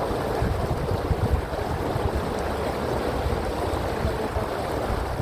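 Wind buffeting the microphone, with an uneven low rumble, over the steady noise of an open canal tour boat moving through the water.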